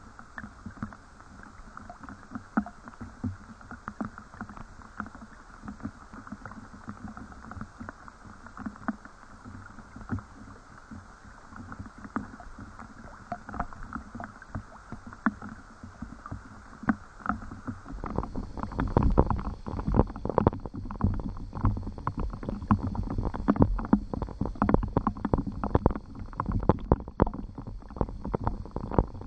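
Rain falling, a dense, uneven patter of drops. About two-thirds of the way through it becomes louder and closer.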